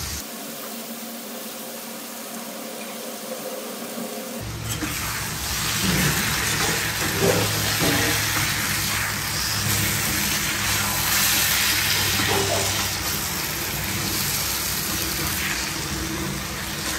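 Tiger prawns frying in masala in a kadai, sizzling as they are stirred, with the spoon now and then scraping the pan. The sizzling comes in loudly about four seconds in, after a quieter start.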